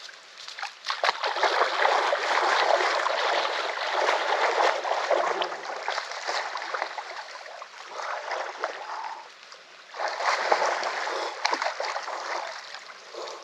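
Water splashing in a shallow stream in uneven surges, from someone wading into the cold water, over the stream's running water.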